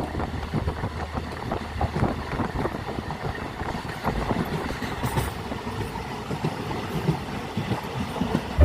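A passenger train running, with the coach and wheels rattling and clattering irregularly over a steady rumble.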